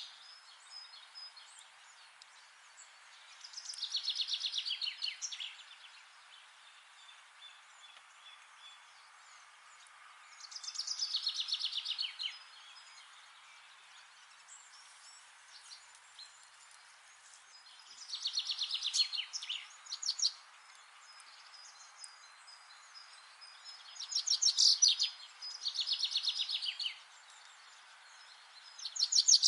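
A songbird singing a short phrase of rapid notes that fall in pitch, repeated about five times at intervals of roughly six seconds, over a steady faint hiss of forest background noise.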